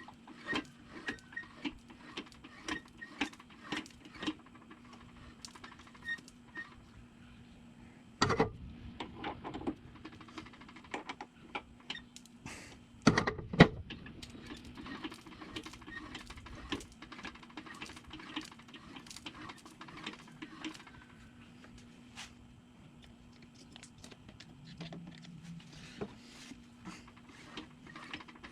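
Hand tools clicking and knocking on metal during brake work, in irregular taps, with a louder knock about 8 seconds in and a louder clatter about 13 seconds in, over a steady low hum.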